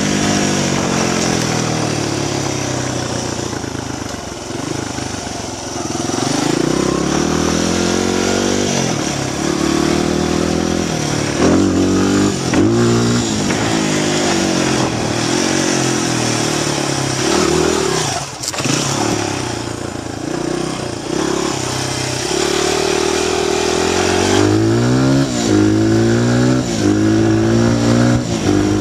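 Honda XR100 dirt bike's small single-cylinder four-stroke engine being ridden hard, revving up and dropping back again and again as it runs up through the gears. There is a steady hiss of wind noise, and one sharp knock about two-thirds of the way through.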